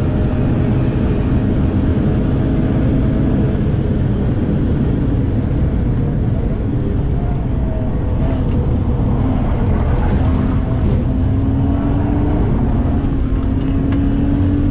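BMW E36's stroked 3.0-litre inline-six (M50 iron block with S50B30 US crank and pistons) running hard on track, heard from inside the cabin. Its pitch climbs steadily in the last few seconds as the car accelerates. The engine sounds healthy, though the car pulls sluggishly for its size.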